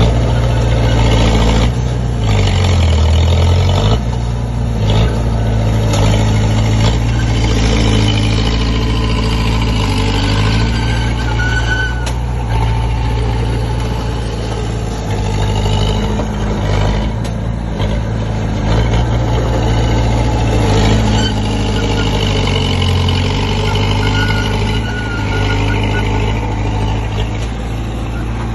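Komatsu D20P bulldozer's diesel engine running steadily under load, its pitch briefly dipping and recovering a few times as it pushes soil, with occasional clanks and two brief squeals.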